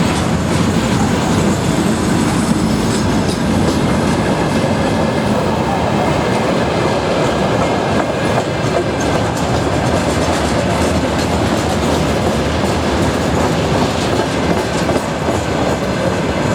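Freight train rolling past at close range, a steady loud rumble of steel wheels on the rails with a clickety-clack of the wagons' wheels.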